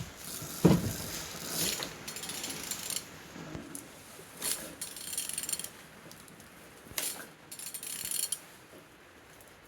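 A used engine being turned over by hand with a ratchet wrench: irregular ratchet clicks and metal clunks, the loudest knock about a second in. The engine turns without trouble, which the seller calls running good.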